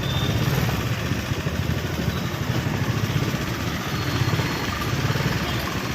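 Busy street noise with a vehicle engine running close by, a steady low rumble.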